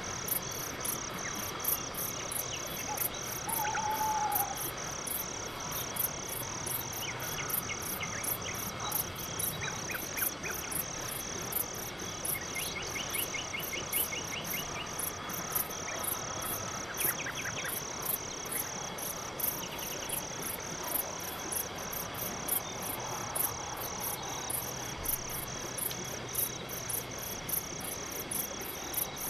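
Crickets chirping in an even rhythm of about two chirps a second, with a few faint bird calls and short trills scattered among them.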